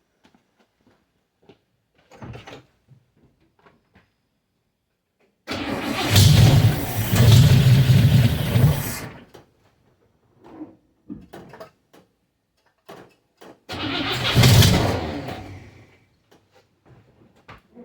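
1961 Cadillac's 390 V8 started after months of sitting on gas poured into the carburetor: it fires and runs loud for about three seconds, dies away, then fires again briefly near the end and fades out. One side exhausts through straight pipe, its muffler blown out by a backfire.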